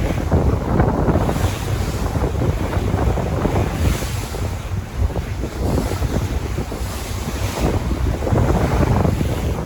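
Sea waves washing in continuously, rising and falling in hiss every second or two, with a steady low rumble of wind buffeting the microphone.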